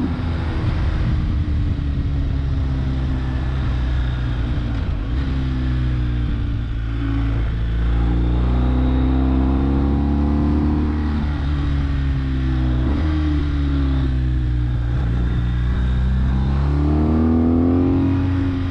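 BMW R1250GS Adventure's boxer twin engine heard from the rider's seat, its revs rising and falling as the bike slows and shifts down through the gears. The revs rise sharply near the end.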